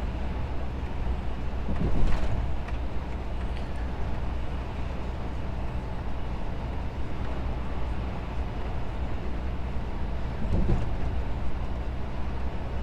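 Steady truck engine and road noise heard from inside the cab at highway speed, a low even hum. There are two brief louder swells, one about two seconds in and one near the end.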